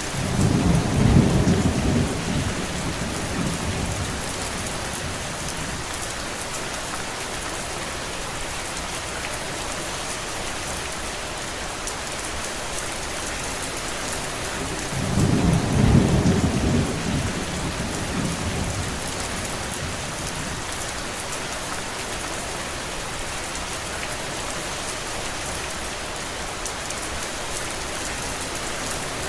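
Steady rain hissing evenly, with two low rolls of distant thunder, one about a second in and another about fifteen seconds in, each swelling and fading over a few seconds.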